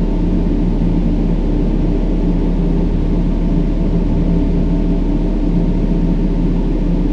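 Steady brown noise: an even, deep rush weighted toward the low end, with a few low steady tones running through it.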